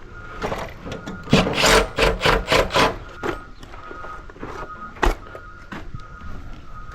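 A quick run of about seven scraping, rasping strokes, then a single sharp knock, from hand work on the service panel and wire. A vehicle's reversing beeper sounds on and off throughout.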